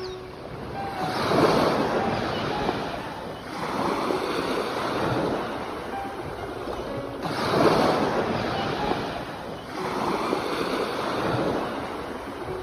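Sea waves breaking and washing on the shore, the rush of surf swelling and fading about every three seconds.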